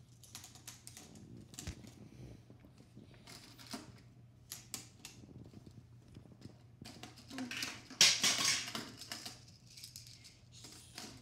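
Plastic magnetic building tiles clicking and clattering as they are handled and snapped together, with a louder stretch of clatter about seven to nine seconds in.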